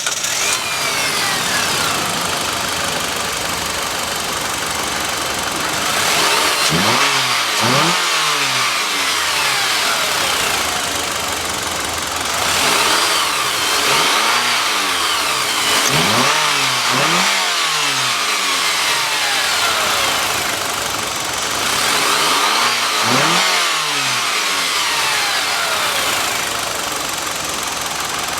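Citroën C-Crosser's engine idling and revved several times while standing, each rev climbing in pitch and dropping back to idle.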